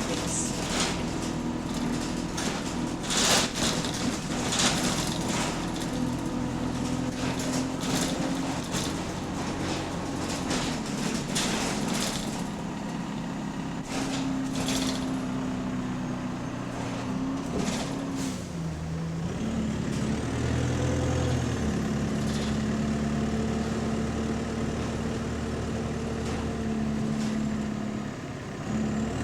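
Bus engine running under way, heard from inside the saloon, on a bus with a developing exhaust leak. Sharp knocks and rattles sound through the first part. About two-thirds of the way in the engine note changes, then settles into a steady drone.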